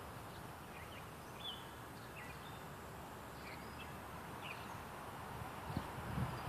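Outdoor ambience: a steady hiss with short, scattered chirps of distant birds. A few low thumps near the end.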